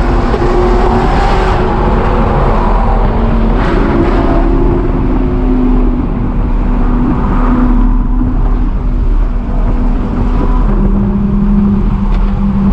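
Loud car engine noise: engines running, their pitch stepping up and down as they rev, over a steady rumble.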